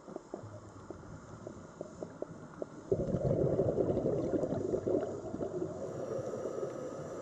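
Sea water: scattered faint clicks, then about three seconds in a sudden low rush of churning water that slowly eases off.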